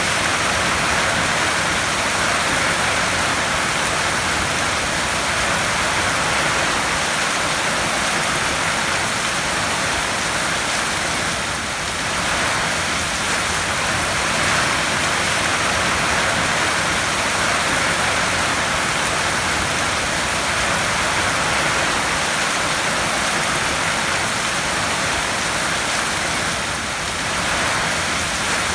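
Heavy rain falling steadily on a tin roof: a dense, even hiss of countless drops on the metal sheeting.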